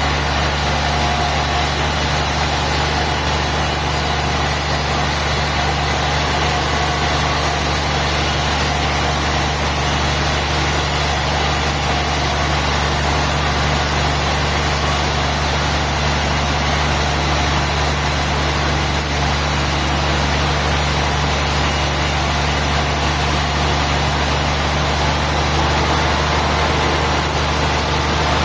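An engine running steadily, with a constant low hum that does not change in pitch or level.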